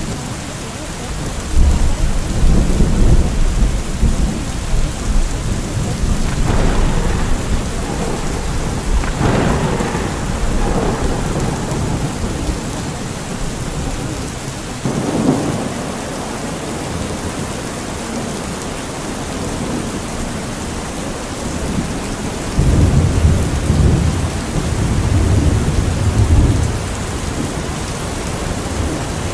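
Steady rain with rolling thunder: deep rumbles near the start and again about three-quarters of the way through, with brighter peals around a third and halfway through.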